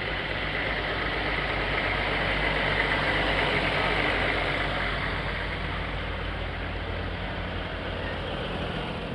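An engine running steadily at idle, with a low, even hum under a broad haze of noise that swells slightly in the middle.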